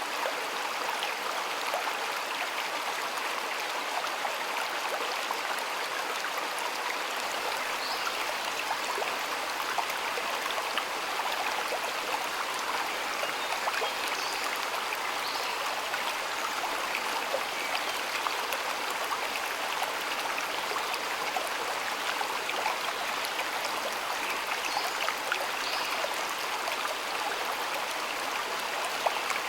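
A shallow stream flowing steadily, a continuous rush and babble of water with small splashing ticks.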